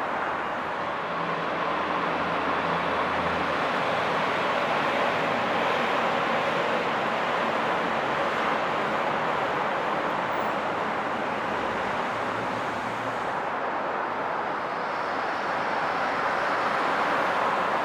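Steady highway traffic: a continuous wash of tyre and engine noise from vehicles passing. A low engine hum rises and fades twice, a second in and about twelve seconds in.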